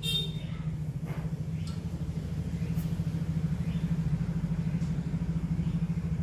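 A steady low mechanical hum with a fast, even pulse, like a small motor or engine running, growing slightly louder, with a few faint clicks in the first few seconds.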